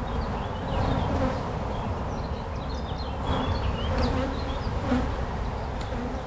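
Many honeybees buzzing around an opened hive during a frame inspection: a dense, steady hum.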